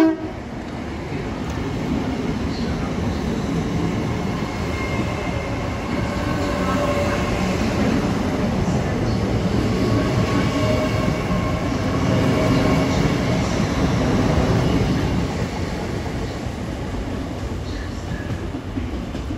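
A Great Western Railway Hitachi Intercity Express Train runs past along the platform, its rumble of wheels and running gear building as it draws level and fading as it goes away. A faint high whine sounds through the middle of the pass, and the last of a horn note is heard at the very start.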